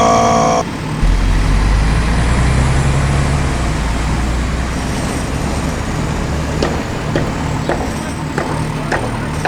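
A vehicle horn sounds once, briefly, then a heavy vehicle's engine runs with a strong low rumble that eases after a few seconds into a steady drone, with a few faint knocks near the end.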